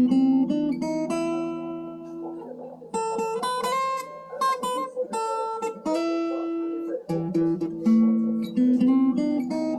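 Acoustic guitar played roughly: strummed chords mixed with picked notes, with a fresh run of strummed chords starting about three seconds in and again about seven seconds in.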